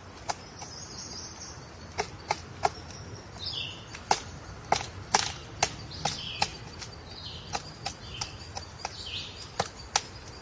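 Woodpecker pecking at wood: irregular sharp taps, about one or two a second, with short high bird chirps in between.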